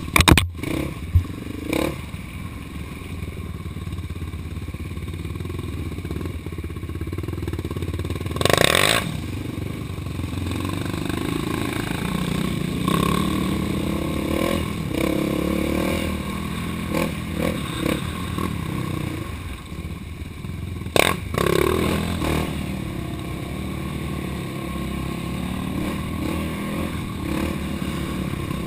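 Off-road vehicle engine running on a trail ride, its pitch rising and falling as the throttle is worked. Three short, loud bursts of noise cut in: at the start, about nine seconds in, and about twenty-one seconds in.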